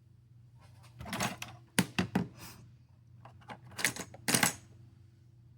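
Small sharp clicks and taps of repair tools and phone parts being handled during smartphone disassembly, in two clusters: a run of clicks from about a second in, and a few more near the end. A faint steady electrical hum lies underneath.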